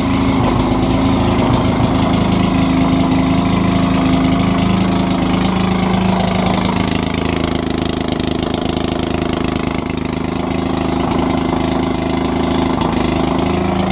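Maytag Model 72 single-cylinder two-stroke gas engine running steadily on a washing machine, driving the wringer in reverse.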